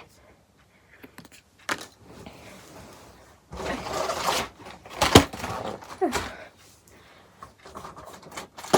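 Irregular handling noise: cardboard and paper rustling with a few sharp knocks and taps as small advent-calendar items and packaging are handled.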